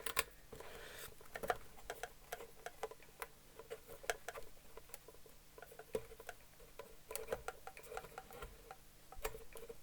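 Fender Starcaster's control pots and switch being worked back and forth, giving irregular small clicks and rattles: working freshly applied service oil into the corroded contacts.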